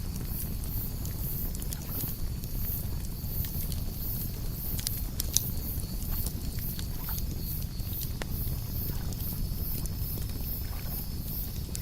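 Campfire crackling, with scattered sharp pops and one louder snap about five seconds in, over a steady low rumble. Crickets chirp in very high, even pulses about three times a second, and a steady high insect trill joins about halfway through.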